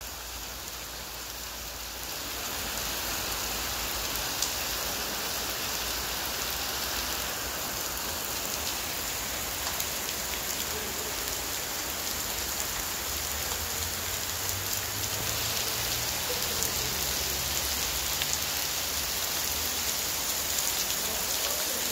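Steady rain shower falling on the ground, with individual drops ticking; it grows louder about two seconds in and then holds steady.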